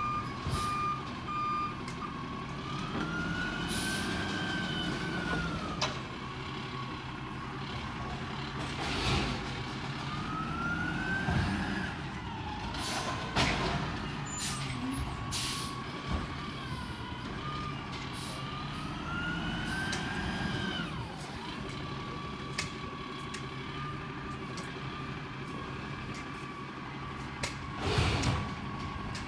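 Peterbilt 320 garbage truck with an Amrep elliptical body running, its engine hum under a whine that rises and falls in pitch three times as the engine revs. Several sharp clanks and hisses are scattered through it, one near the end.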